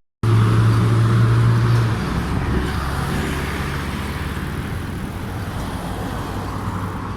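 Road traffic: a nearby motor vehicle's engine hum is loud for the first two seconds, then gives way to steady traffic and road noise.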